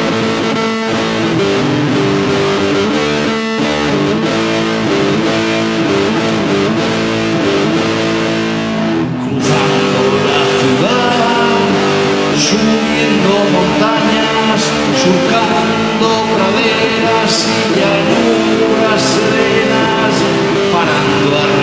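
Rock music with electric guitar playing sustained chords; about nine seconds in the band drops out for a moment and comes back in fuller and louder, with cymbal crashes.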